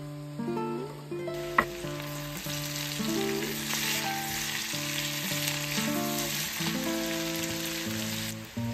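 Pork pieces and sliced red onions sizzling in a hot frying pan as they are stirred with a spatula. The sizzle starts about a second in and cuts off shortly before the end, with one sharp tap just after it starts, over steady background music.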